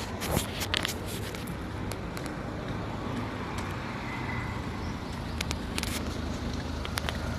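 Car engine running steadily, with a few brief clicks here and there.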